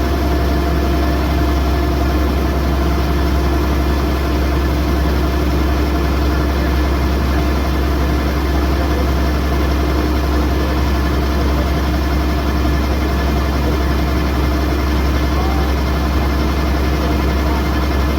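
Kubota DC108X combine harvester's diesel engine running, a steady, unchanging drone with a strong deep hum and a few held tones above it.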